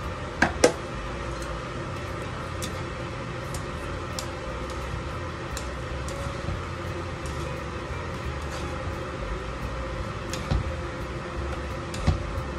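A steady low hum, with a few sharp taps from wooden chopsticks knocking a nonstick pan while glass noodles are tossed: two close together about half a second in, and two more near the end.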